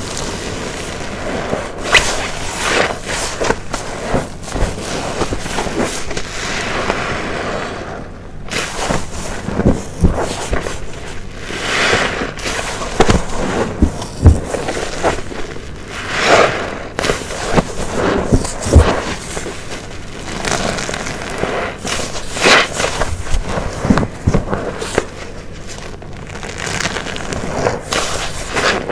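Soapy car wash waffle sponge being squeezed and released again and again, giving wet squelching and crackling foam, each squeeze swelling and fading over a second or two.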